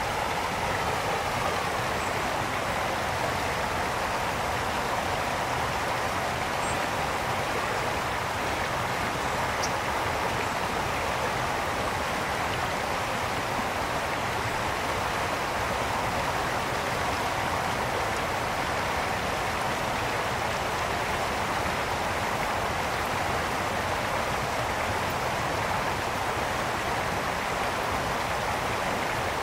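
Mountain brook flowing steadily, a constant rushing burble of water over stones.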